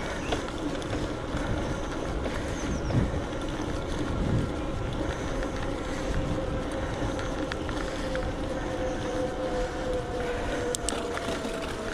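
Electric bike's motor whining steadily under load on an uphill climb, its pitch sagging slowly and rising again near the end, over wind and tyre noise on the microphone.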